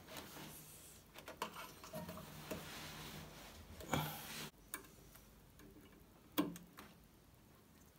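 Irregular clicks and light knocks from parts of an opened washing machine being handled, with a sharper knock about four seconds in and another a little after six seconds.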